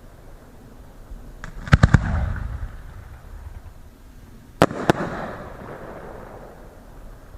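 Fireworks exploding: a quick run of sharp bangs a little under two seconds in, then two more bangs near five seconds, each followed by a low rolling echo.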